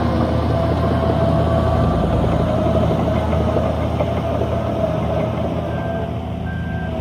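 Heavy diesel earthmoving machinery running steadily under load, with a mid-pitched mechanical whine over the engine. Near the end a reversing alarm starts beeping, about one beep a second.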